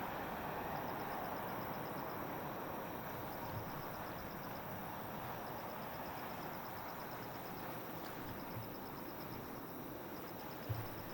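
Distant jet noise from a Boeing 787-8 airliner on its landing, a steady rumble slowly fading away. Over it runs a high chirping in short rapid bursts every second or two, and there is a low thump near the end.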